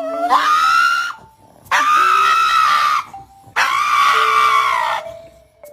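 A dog giving three long, high-pitched screaming howls, each about a second or more long, with short pauses between them.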